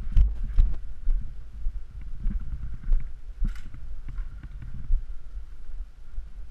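Irregular soft thumps and knocks with a few sharp clicks, typical of a player's footsteps and gear jostling against a body-worn camera while moving.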